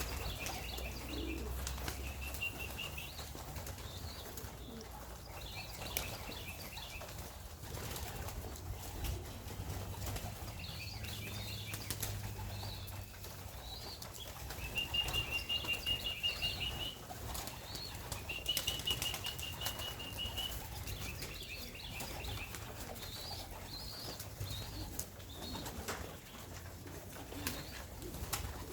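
Pigeons' wings flapping and clapping in repeated short flurries as the young birds fly around the loft, with high chirping calls throughout and two held high notes in the middle.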